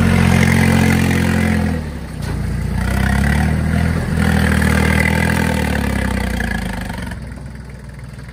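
Iseki tractor's diesel engine running under load, easing off about two seconds in, picking up again, then dropping back to a lower, quieter run near the end.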